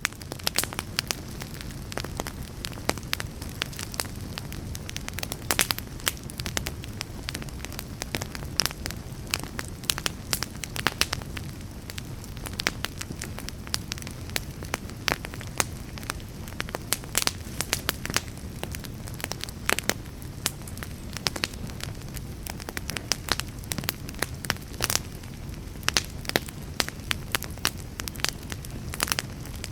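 Wood fire burning: a steady low rumble of flames under frequent, irregular sharp crackles and pops, several of them loud.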